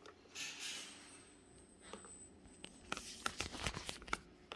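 Hand spray bottle misting water over an African ringneck parakeet: a short hiss of spray just under a second in, then a run of sharp clicks and rustles near the end.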